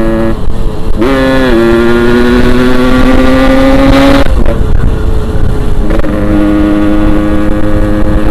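Yamaha RX-King 135cc two-stroke single-cylinder motorcycle being ridden hard, its engine note climbing steadily under full throttle. The note cuts off at about four seconds and picks up again about two seconds later at a steady pitch.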